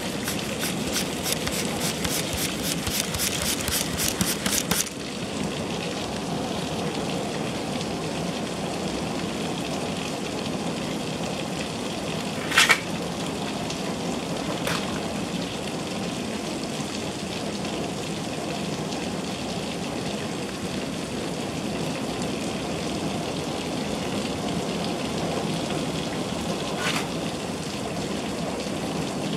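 Heavy rain falling steadily, with water pouring off a roof edge and splashing onto wet pavement. A fast run of close ticks, about four a second, stops about five seconds in. A single sharp knock about halfway through is the loudest sound, and two fainter knocks come later.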